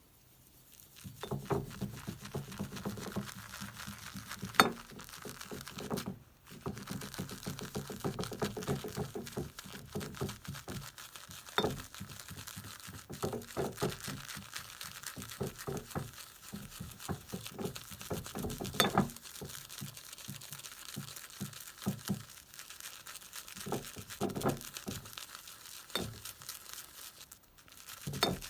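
Synthetic shaving brush swirling and whipping shaving soap into lather in a shaving scuttle: a continuous run of quick, wet, crackly strokes. There are occasional sharper clicks of the brush against the bowl, and brief pauses around six seconds in and near the end.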